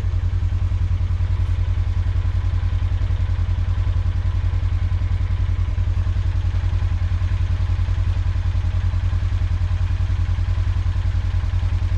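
Small gasoline engine running steadily at a constant speed, with an even rapid pulse and a strong low hum.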